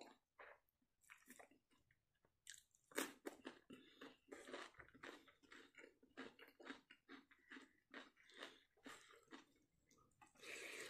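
Close-up chewing and mouth sounds of a person eating fish curry and rice: a run of short wet clicks and smacks, loudest about three seconds in, growing denser near the end as a fresh handful goes into the mouth.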